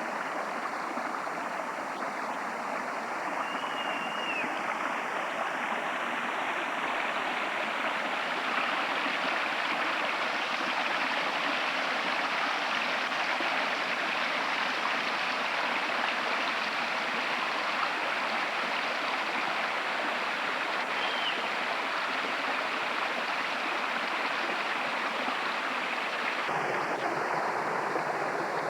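Steady rushing of a stream: an even, continuous wash of flowing water.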